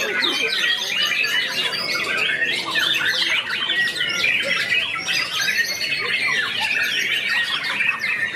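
Many caged white-rumped shamas (murai batu) singing at once: a dense, unbroken tangle of overlapping, fast-changing whistled and harsh notes.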